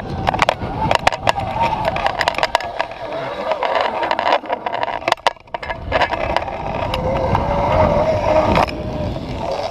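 Zip line pulley rolling fast along its steel cable, a wavering whine that sinks a little in pitch late on, with wind rumble and buffeting on the microphone and scattered sharp knocks.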